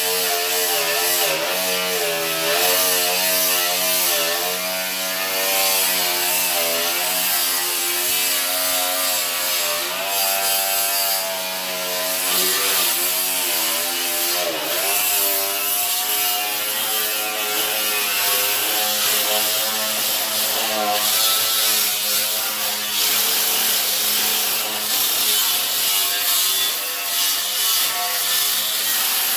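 Handheld electric power tool running continuously under load on metal, its motor pitch wavering up and down as it bogs and recovers, over a steady hiss of cutting or grinding.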